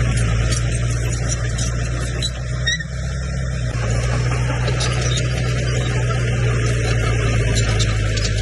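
Komatsu bulldozer's diesel engine running steadily at a low, even pitch, with a brief dip about three seconds in and scattered light clicks over it.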